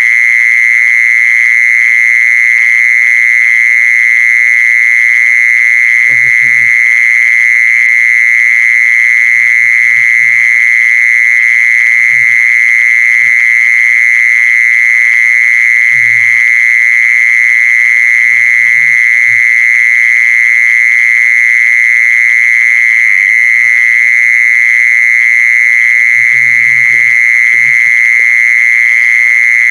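Insect the Thai call jee-son (แมลงจีซอน) calling without a break: one steady, loud, high-pitched drone with fainter overtones above it. Faint, brief low sounds come and go beneath it.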